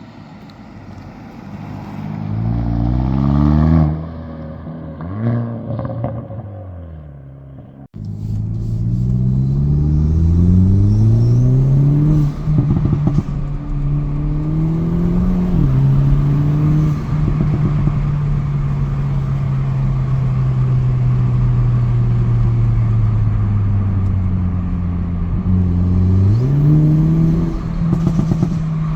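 Hyundai i30 N's 2.0-litre turbocharged four-cylinder pulling hard through the gears. The note climbs and drops back at each quick dual-clutch upshift, with bursts of crackle from the exhaust, then holds a steady pitch for several seconds before revving up again near the end.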